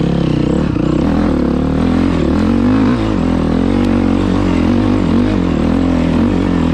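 Enduro dirt bike engine running under load, the pitch rising and easing as the throttle is worked on a slick muddy hill.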